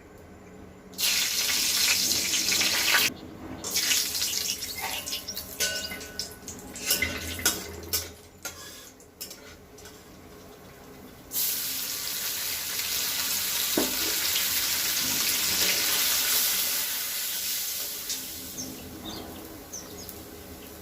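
Water running from a tap into a sink in two spells: on about a second in and off abruptly two seconds later, then on again for several seconds before fading near the end. Between the spells come irregular clatters and clinks.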